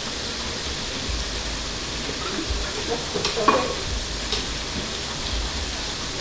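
Hot oil sizzling steadily as food fries on the stove, with a few light clicks and knocks about halfway through.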